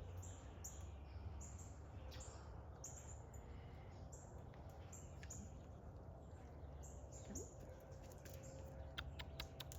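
Small birds chirping now and then in short, high, falling notes, over a steady low background rumble. A quick run of sharp clicks comes near the end.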